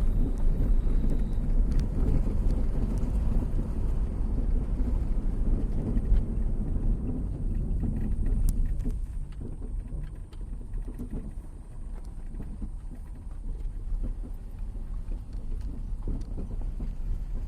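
Car driving along a road: a steady low rumble of engine and road noise with wind buffeting the microphone, easing off a little about ten seconds in.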